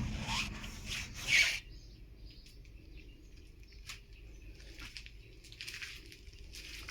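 Rustling and scraping of material being handled, with one louder rasping scrape about a second and a half in, then scattered light clicks and rustles.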